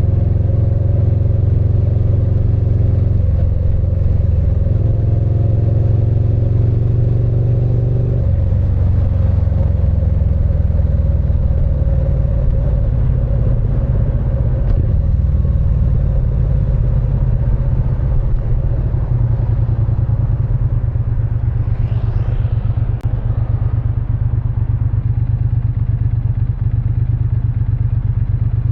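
Triumph Speed Twin 900's parallel-twin engine and exhaust running, its engine speed changing a few times in the first eight seconds, then running steadier and slightly quieter.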